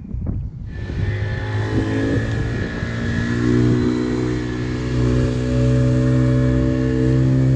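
Fishing boat's engine running hard: it comes in under a second in, rises a little in pitch, then holds a steady loud drone.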